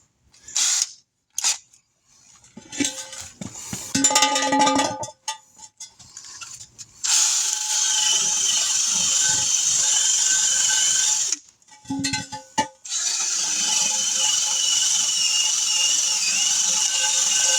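A few short knocks and clatter, then a power drill spinning a wire brush against metal in two long runs of about four and five seconds. It makes a harsh, steady scrubbing hiss with a high whine that wavers.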